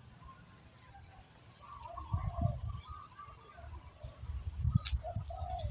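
Birds chirping: short high calls about once a second, over intermittent low rumbling.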